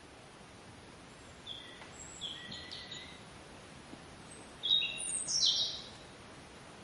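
Small birds chirping: a cluster of short high calls about two seconds in and a louder burst of sweeping calls near five seconds, over a steady hiss.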